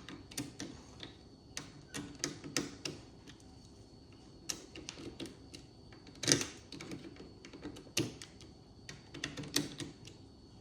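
Irregular small metallic clicks and taps of hand tools on a Holley carburettor as the accelerator pump body screws are tightened, with one sharper knock about six seconds in.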